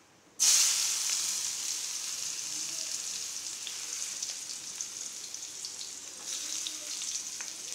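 Chopped vegetables hitting hot oil in a kadai tempered with mustard seeds and turmeric: a sudden loud sizzle about half a second in, settling into a steady frying sizzle with a few light ticks.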